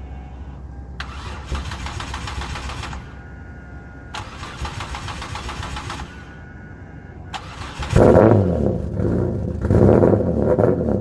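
Turbocharged 2005 Hyundai Tiburon GT's 2.7-litre V6 on its first start after a custom exhaust build. The starter cranks twice for about two seconds each without the engine catching, then cranks briefly a third time. About eight seconds in the engine fires and runs loudly through the new exhaust.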